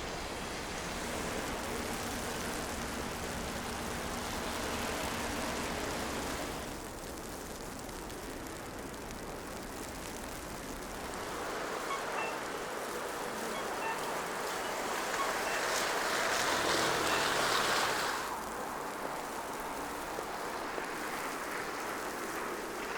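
Downtown street ambience during snowfall: a steady hiss of traffic, like tyres on a wet road, that swells for several seconds past the middle and then drops off abruptly.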